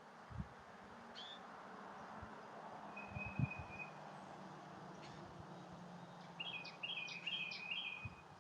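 A songbird singing: one held high whistle about three seconds in, then a quick run of high chirps near the end, over a steady hiss with a few low thumps.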